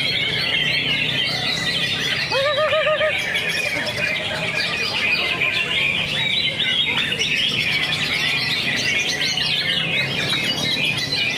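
Green leafbirds (cucak hijau) and other songbirds singing together in a dense, unbroken stream of rapid, high chirps, with a short wavering whistle about two seconds in.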